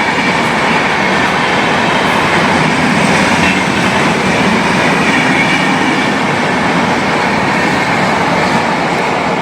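Train running on the rails: a steady, loud rumble and rattle of wheels and carriages that holds evenly throughout.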